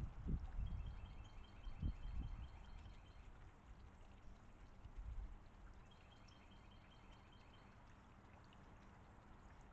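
A small songbird singing two rapid trills of evenly repeated high notes, the first lasting about two and a half seconds and the second, about six seconds in, a little shorter. Low rumbling noise comes and goes through the first few seconds.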